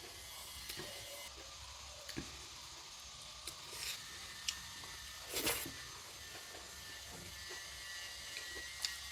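A person eating close to the microphone: soft mouth and chewing sounds with scattered small clicks, and a short crunchy burst about five seconds in, over a faint steady hum.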